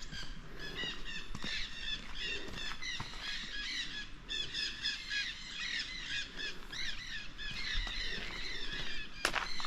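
A flock of small birds chirping and chattering together: many short, overlapping calls, with a sharp click near the end.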